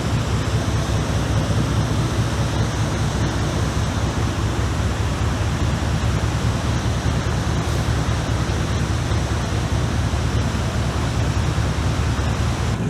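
Fishing boat under way: a steady rush of wind and water over a low, even engine drone.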